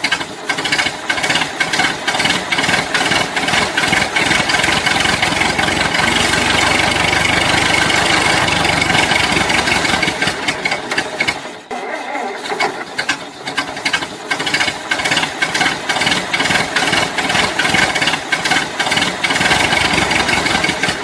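Continuous mechanical rattling and clattering, like a small engine or motor running, with a brief lull a little past the middle.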